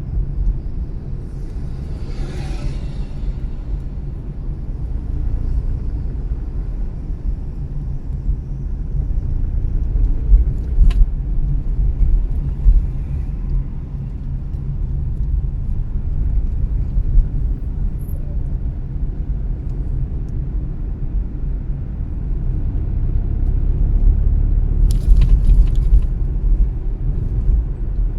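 A car driving through town: a steady low road and engine rumble that swells and eases with speed. A brief hiss comes about two seconds in, a single click about eleven seconds in, and a short patch of clicks near the end.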